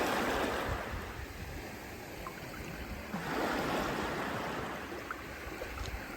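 Sea water washing in, swelling twice: once near the start and again about three seconds in.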